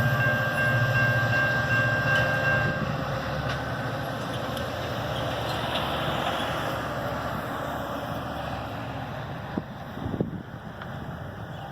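Amtrak Piedmont diesel passenger train pulling away, its rumble and rolling wheels fading steadily. A steady high whine stops about three seconds in, and two short knocks come near the end.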